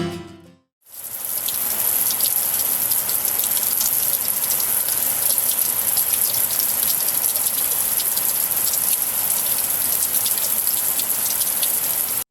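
Rain falling steadily: an even hiss with many small drop ticks. It starts about a second in, after the last of some acoustic guitar music fades out, and cuts off sharply at the end.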